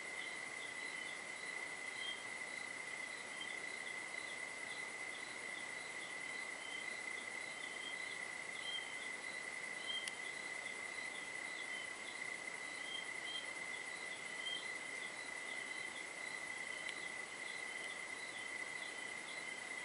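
Crickets and other insects at night: one unbroken, steady high trill, with a second, higher-pitched caller chirping regularly about twice a second over it. A single faint click comes about halfway through.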